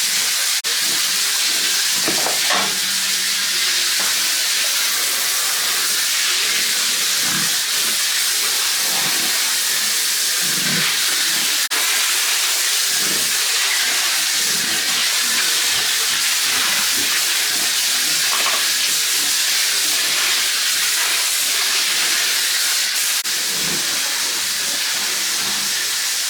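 A steady, loud hiss of noise, with faint scattered knocks and rustles underneath.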